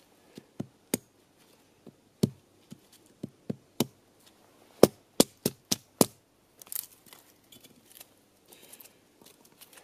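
A series of sharp knocks or chopping strikes, irregularly spaced, with a quicker run of five about five seconds in.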